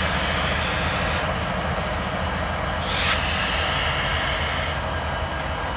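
Diesel freight locomotive engines running with a steady low throb, over a broad noisy rumble. A short hiss breaks in about three seconds in.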